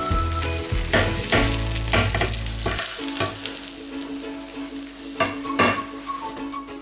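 Omelet sizzling in a frying pan, the hiss strongest in the first couple of seconds, with a few sharp clicks of a utensil against the pan.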